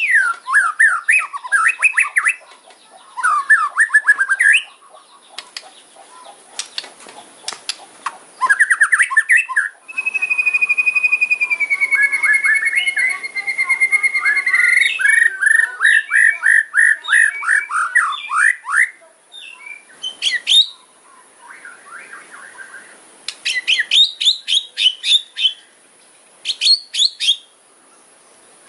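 White-rumped shama (murai batu) singing in aggressive 'kretekan' fighter style, the kind of song used to provoke rival birds: rapid rattling runs of short sharp notes and fast trills, with one long whistled note about ten seconds in that slides slowly down in pitch.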